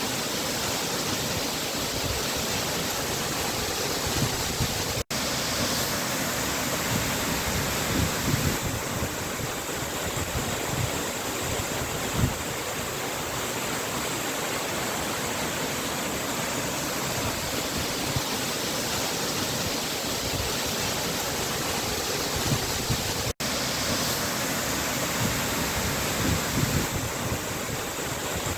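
Waterfall: a steady rush of falling water, cut off for an instant twice.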